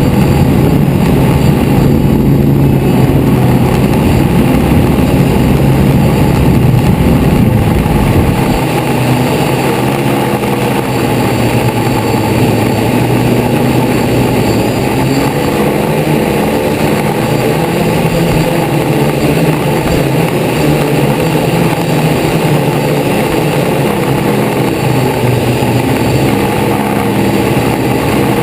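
DJI Flame Wheel multirotor's electric motors and propellers buzzing steadily in flight, heard from the GoPro on board. A deep rumble underneath falls away about eight seconds in.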